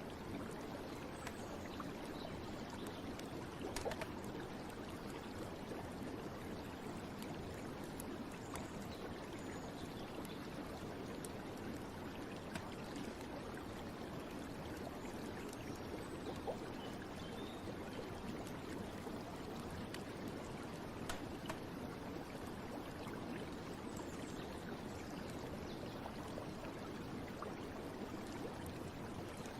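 Steady flowing water, a stream running and trickling, with a few faint small clicks and drips.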